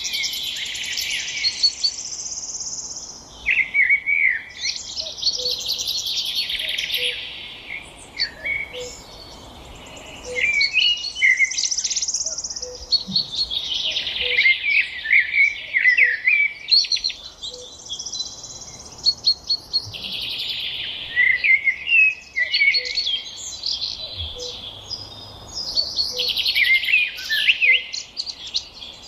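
Songbirds singing: high-pitched, rapidly varied song phrases a few seconds long, repeated one after another with short pauses. A fainter, lower note repeats about once a second underneath.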